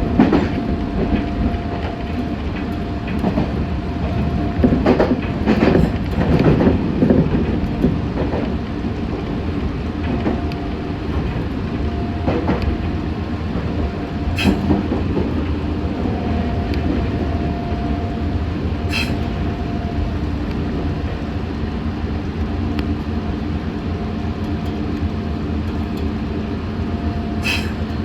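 Meitetsu 6500 series electric train running along the line, heard from inside the car: a steady rumble of wheels on rail under a constant hum. There are several clacks over rail joints in the first few seconds and a few sharp ticks later.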